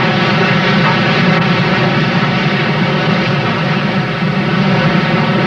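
A train running past with a steady, dense rumbling drone and no distinct exhaust beats.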